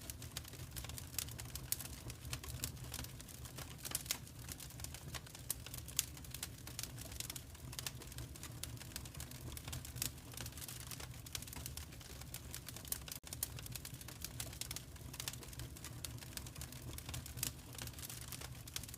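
Fireplace fire crackling and popping in quick, irregular clicks over a low steady rumble, with a momentary dropout about thirteen seconds in.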